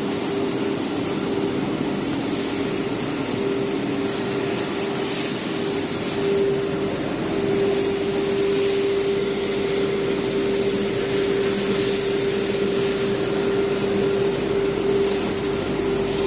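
CNC router's 9 kW air-cooled spindle running at high speed: a steady whine over a constant rushing noise, growing slightly louder about six seconds in.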